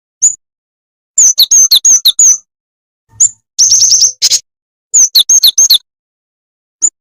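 Lure recording of a jingjing tetep bird's call: sharp, high chirps given singly and in quick phrases of several notes, some phrases dropping between a higher and a lower note, with a fast chattering run in the middle.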